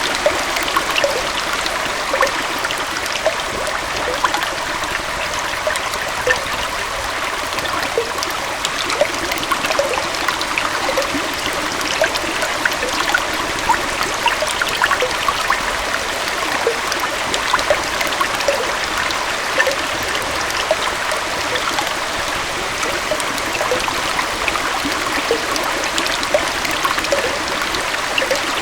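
Water from a small waterfall flowing steadily into a stream, an even rushing sound dotted with many small splashes and gurgles.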